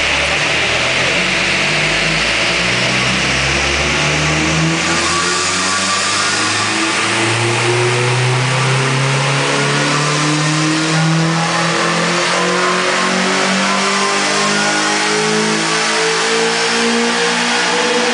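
Honda Civic's D15B2 1.5-litre four-cylinder engine pulling under full load on a chassis dynamometer, its note rising slowly and steadily as the revs climb through one long gear, over a steady rushing noise.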